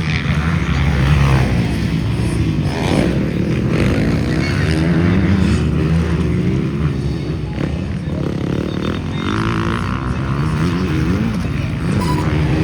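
Motocross bikes racing on the track, their engines revving up and down as they pass, several at once.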